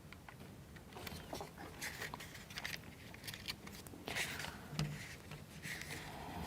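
Faint, scattered clicks and short scrapes of wooden plywood model-kit parts being handled and pressed into place.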